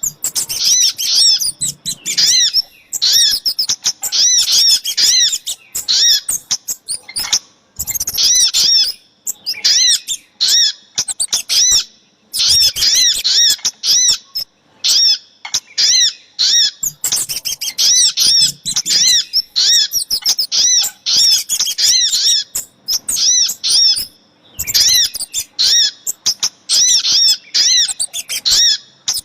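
Bird-lure recording of sogok ontong (little spiderhunter) and kemade calls: rapid runs of high, arching chip notes in bursts of a few seconds, broken by short pauses.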